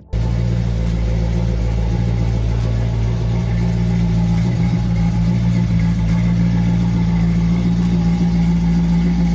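Car engine idling steadily with a low, even rumble, starting abruptly.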